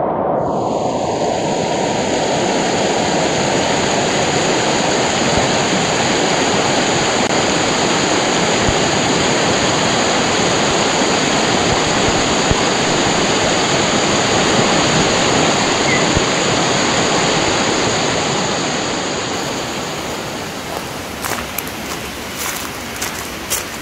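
Mountain stream rushing over rocks, a loud, steady rush of water that eases a little near the end, where a few sharp clicks come in.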